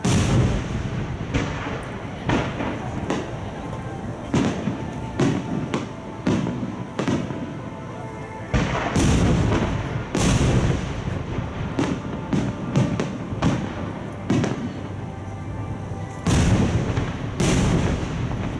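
Aerial firework shells bursting in quick, irregular succession, each a sharp bang followed by a rolling echo. The bangs come thickest and loudest about nine seconds in and again near the end.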